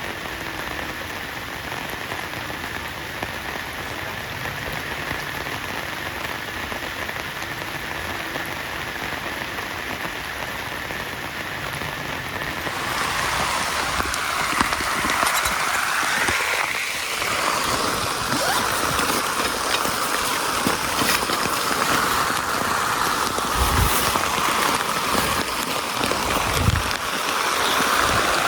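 Heavy rain falling in a steady hiss; about twelve seconds in it switches abruptly to a louder, brighter rain sound.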